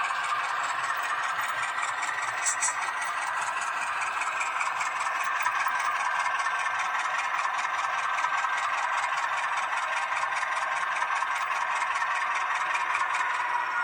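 H0-scale model of a Renfe Alco 313 diesel locomotive running on track: a steady whir from its motor and wheels with fast, even ticking, and one sharper click about two and a half seconds in.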